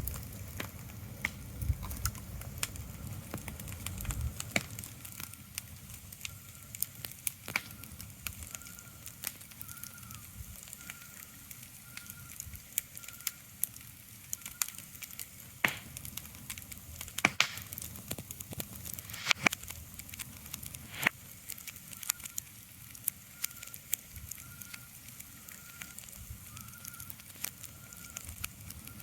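Steady crackling with scattered sharp pops, over a soft hiss. A faint high chirp repeats about once a second in two stretches, one near the middle and one near the end.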